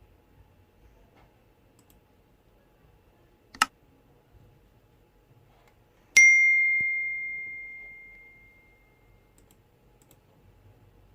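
A sharp click, then a single bell-like ding that rings out and fades over about three seconds.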